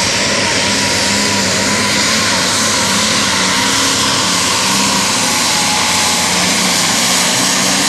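Turbocharged diesel Super Stock/Pro Stock pulling tractor running at full power, pulling the sled down the track. It is a loud, steady engine noise with a high whistle that wavers in pitch.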